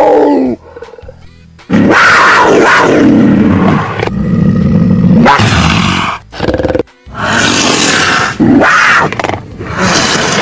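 Loud animal roars and calls, several in a row with short breaks between them, over music.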